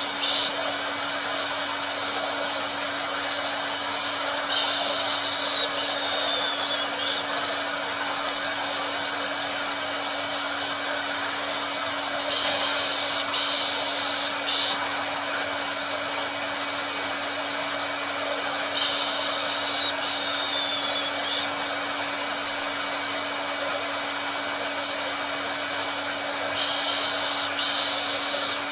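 Hair dryer running continuously: a steady airy hiss over a low motor hum. About every seven seconds the hiss swells brighter and a little louder for two to three seconds, in the same pattern each time.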